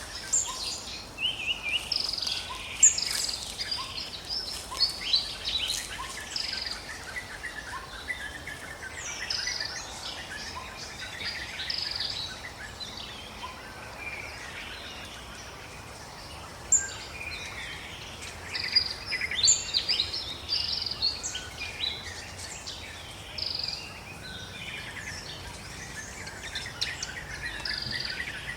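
Forest bird chorus: many birds chirping and calling at once, short sharp notes and quick sweeps overlapping, over a faint steady background hum.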